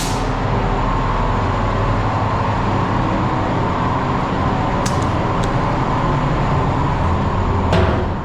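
Steady mechanical running noise, a low rumble with a band of hiss in the middle, and a couple of faint ticks about five seconds in.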